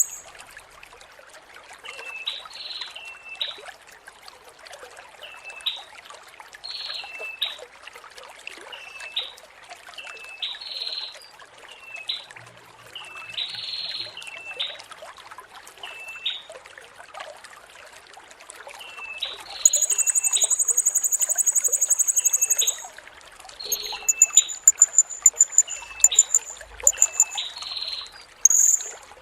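Blue-crowned hanging parrot (serindit) calling: short hooked notes repeated about once a second, with bursts of a very high, fast trill in the last third. Steady trickling water runs underneath.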